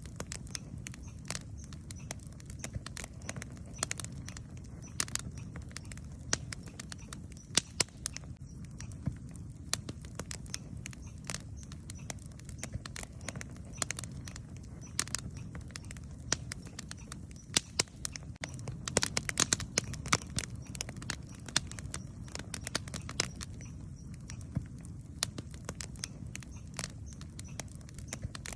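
Wood campfire crackling, with irregular sharp snaps and pops over a low steady rumble. The snaps come in a dense flurry about two-thirds of the way through.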